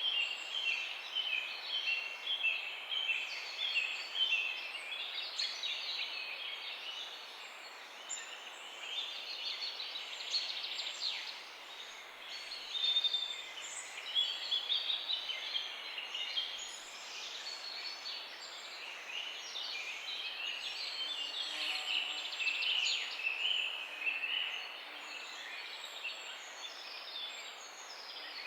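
A dawn chorus of several small songbirds, chirping and trilling over one another without pause, above a soft steady hiss.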